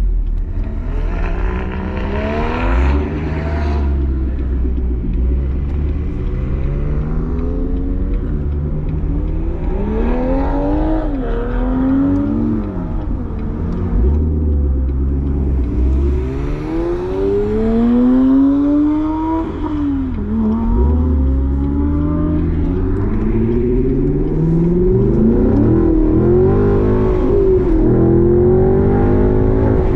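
Sports car engines revving and accelerating hard, their pitch climbing and dropping again and again over a deep exhaust rumble.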